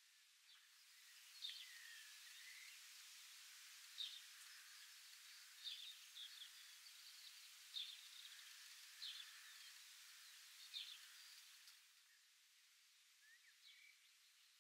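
Faint outdoor ambience: a soft hiss with short, high bird chirps every second or two. The hiss and chirps drop away a little before the end.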